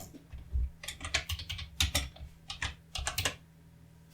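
Typing on a computer keyboard: a quick run of keystrokes lasting about three seconds, then stopping.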